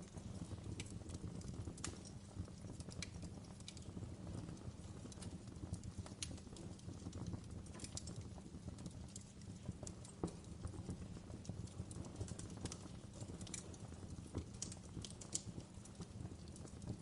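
Wood fire crackling in a fireplace: irregular sharp pops and snaps over a steady low noise of the burning fire, one louder snap about ten seconds in.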